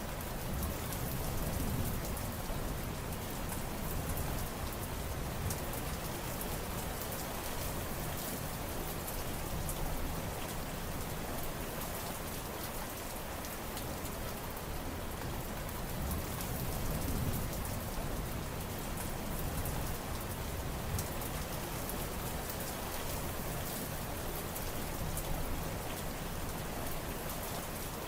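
Steady rain falling: a dense, even hiss with fine ticks of individual drops scattered through it.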